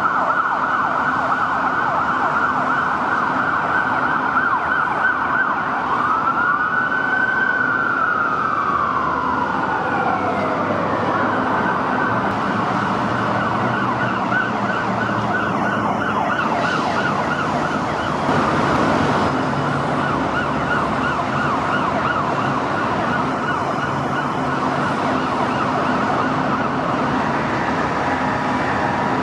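Police vehicle sirens sounding through city streets, mostly a rapid yelp tone. About six seconds in, a slower wail rises and falls over it.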